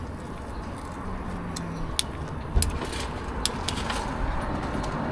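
Outdoor street background noise: a steady rumble of traffic with a few sharp clicks and taps, the loudest about two and a half seconds in.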